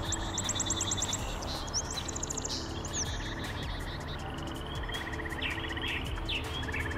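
Small birds singing in the reeds: fast, evenly repeated high trills and short chirps, several overlapping, over a steady low hum.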